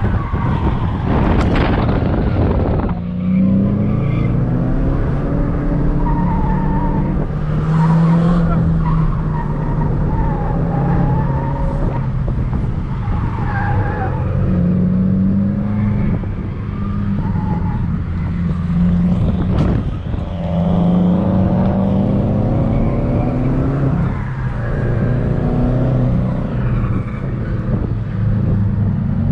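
Subaru WRX's turbocharged flat-four heard from inside the cabin, revs rising and falling again and again as the car is driven hard, over steady tyre and road noise. A brief rush of noise comes about a second in.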